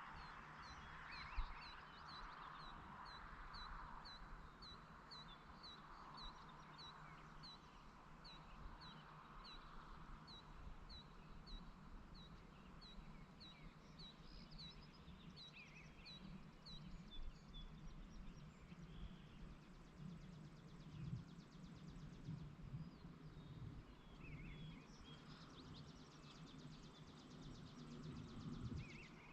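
Faint rural ambience: a bird repeats one short, high, down-slurred call about twice a second through the first half, over a low steady background.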